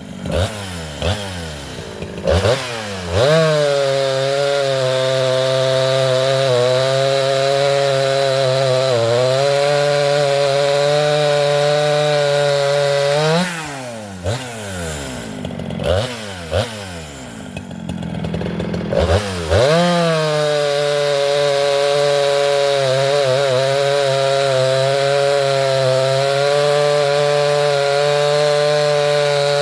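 Craftsman 3.7 two-stroke chainsaw with a 20-inch bar cutting hard white oak at full throttle, its chain filed back with the rakers left high at about 16 thousandths. The engine holds steady revs through two long runs. Between them it drops to idle with a few quick throttle blips, and it drops off again at the end.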